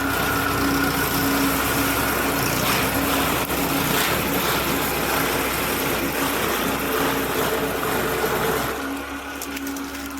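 Sugarcane harvester running steadily under load, its engine hum under a dense rushing noise; it eases off a little near the end.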